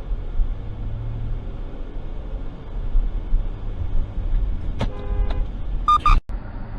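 Car driving with a steady road and engine rumble. A car horn sounds briefly about five seconds in, then a louder, higher horn blast near the end that cuts off suddenly.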